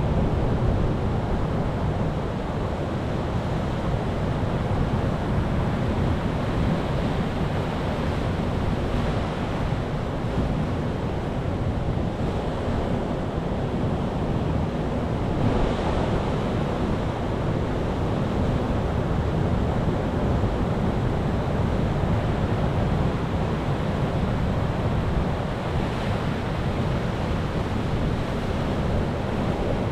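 Sea surf: a steady rush of waves washing in, swelling slightly now and then.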